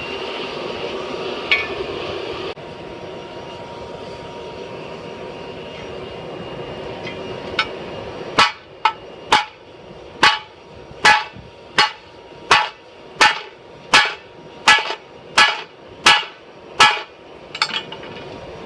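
A hair-dryer blower feeding air into a charcoal forge makes a steady rushing noise. From about eight seconds in, a hammer strikes metal about a dozen times, roughly one ringing blow every three-quarters of a second.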